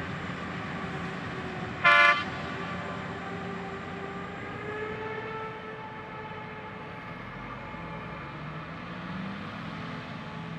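A single short, loud vehicle horn toot about two seconds in, over the steady running of heavy harvest-vehicle engines whose pitch shifts slowly.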